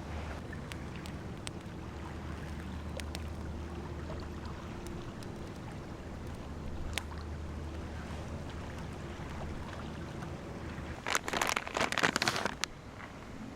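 Steady wind and waves with a low rumble of wind on the microphone, and a few faint clicks. About eleven seconds in comes a loud burst of rustling and crinkling that lasts a second and a half.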